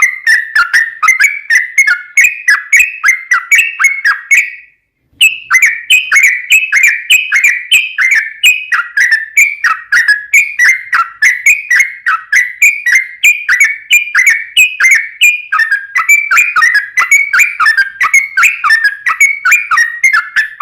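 Yellow-vented bulbul singing a long, rapid run of bubbly chirping notes, about four to five a second, broken once by a brief silence about five seconds in.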